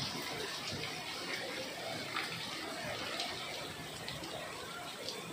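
Heavy rain pouring steadily onto a paved street, with scattered drips and splashes in the steady hiss.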